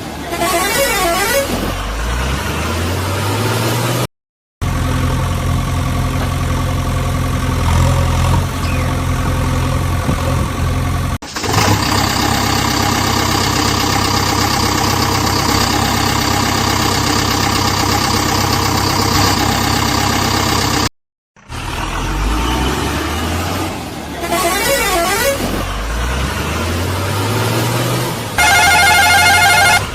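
Heavy-vehicle engine sounds in abrupt spliced segments: an engine revving up with rising pitch, then running steadily. After a brief cut about halfway through, it revs again, and near the end a loud steady horn-like tone sounds.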